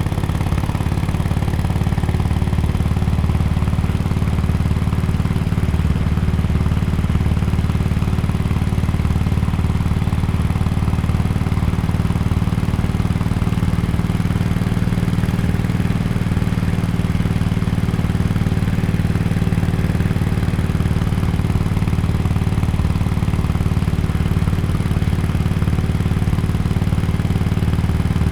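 A 2017 Harley-Davidson XL1200X Forty-Eight's 1200 cc air-cooled V-twin running through an aftermarket Bell's Performance exhaust, holding a steady engine speed with a low, even exhaust note.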